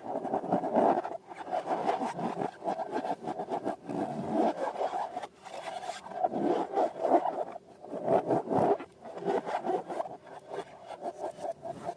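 Balloons and slime being handled by hand: a dense, uneven run of rubbery rubbing, squeaking and squishing, pausing briefly a couple of times.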